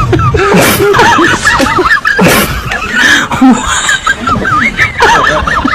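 High-pitched snickering laughter that goes on without a break, its pitch wobbling quickly.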